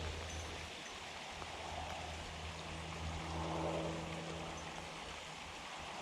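Steady rain falling on water: an even hiss, with a faint low steady hum underneath.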